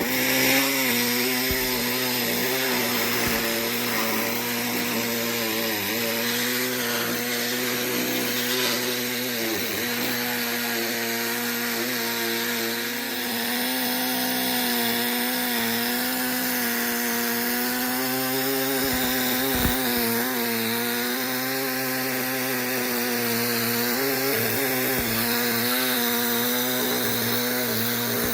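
Angle grinder cutting through the steel of a car's inner wing panel. It starts abruptly and runs steadily, its motor pitch sagging slightly now and then as the disc bites under load.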